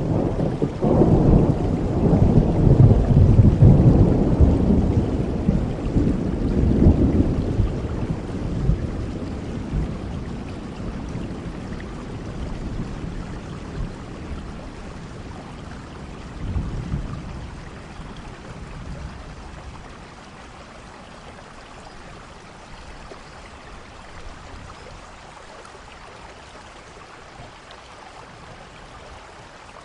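Rain falling steadily in a thunderstorm, with a long rolling rumble of thunder in the first several seconds, a shorter, weaker rumble about halfway through, then rain alone.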